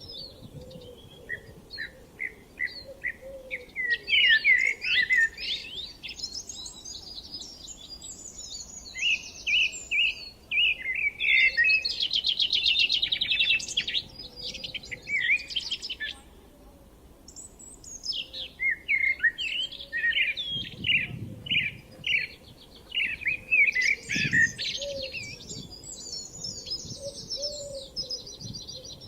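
Songbirds singing in repeated phrases of quick chirps and trills, with a brief lull a little past the middle.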